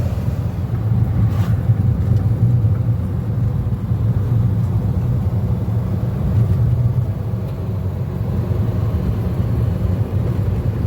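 VW T2 Bay Window camper van's air-cooled flat-four engine running at steady road speed, a continuous low rumble mixed with road noise, heard from inside the van.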